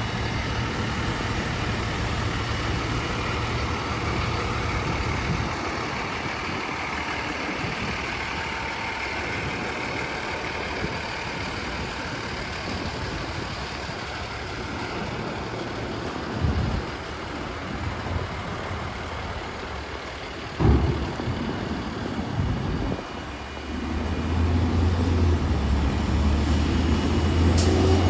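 Hino grapple truck's diesel engine running steadily. It drops back about five seconds in, there are two short knocks in the middle, and it picks up louder again near the end.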